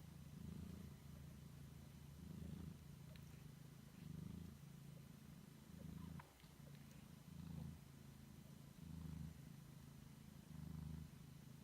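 British Shorthair cat purring low and steadily, swelling and easing about every one and a half seconds.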